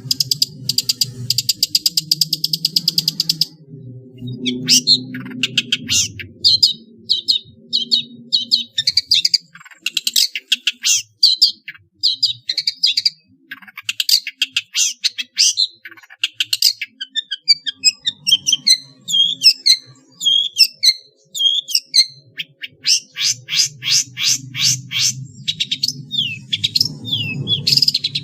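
Long-tailed shrike singing a busy mimicking song: fast trains of rapid, dry chattering notes, broken in the middle by a run of quick down-slurred whistled chirps, with imitations of fighting sparrows, white-rumped shama and other small birds worked in.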